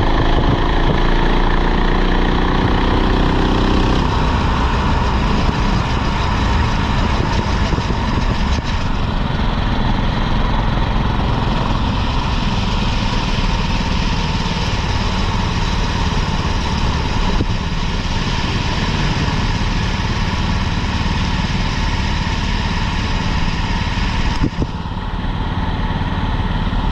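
Go-kart engine running steadily, rising in pitch over the first few seconds as it speeds up.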